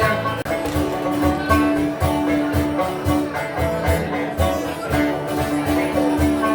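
Instrumental break of a folk song: 12-string guitar and banjo playing together with a steady strummed beat.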